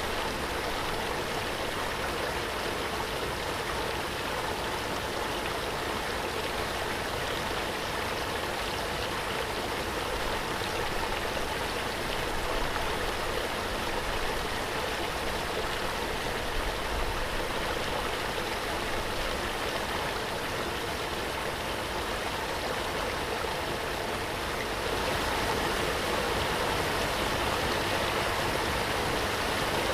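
Waterfall: water falling and rushing in a steady, even roar with no breaks, getting slightly louder near the end.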